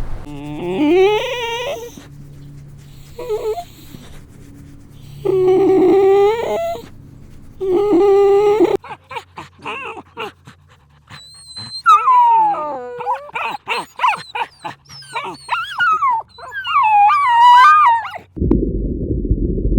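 Animal calls: several drawn-out, whining calls in the first half, then a run of short clicks and quick, wavering, higher-pitched calls.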